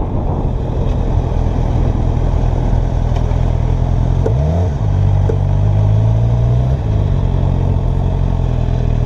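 Motorcycle engine idling steadily, with one short blip of the throttle about four and a half seconds in.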